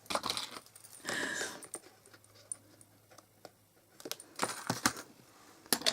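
Hands working thin craft tape and cardstock on a desk: scattered light clicks and taps, with a short scraping rasp about a second in and another run of clicks near the end.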